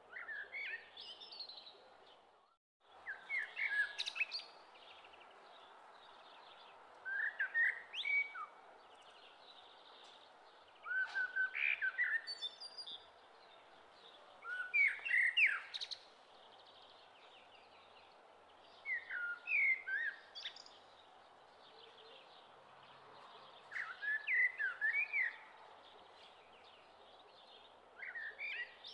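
A songbird singing short chirping phrases of quick up-and-down notes, one phrase about every four seconds, over a steady background hiss; the sound cuts out briefly a few seconds in.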